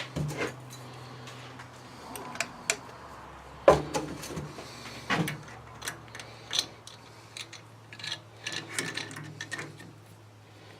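A hand tap being worked through a hole in tough steel with a tap wrench, giving irregular metallic clicks and creaks as it cuts, the loudest knock about four seconds in. A steady low hum runs underneath.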